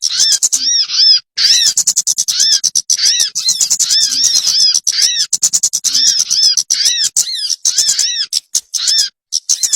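Loud bird calls used as a trapping lure: about two short arched, rising-then-falling whistled notes a second, mixed with rapid ticking chips, repeating without a break.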